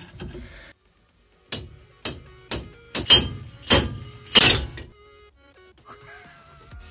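About seven heavy metal blows, roughly half a second apart, knocking at a stuck rear axle shaft to drive it out of the axle housing; the last blow is the loudest. Background music plays underneath.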